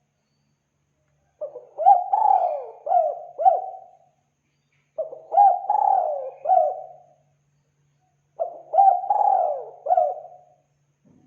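Spotted dove (tekukur) cooing: three phrases about three and a half seconds apart, each a quick run of short up-and-down notes.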